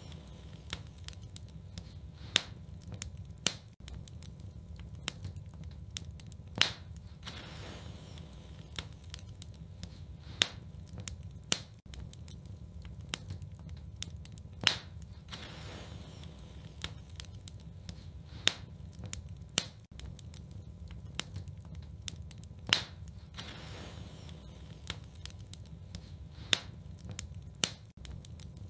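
Wood fire burning in a fireplace: a steady low rumble under irregular crackling, with a handful of sharp, louder pops a few seconds apart.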